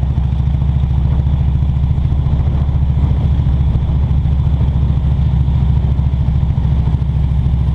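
Motorcycle engine running steadily while riding, with a low, even exhaust note and no revving.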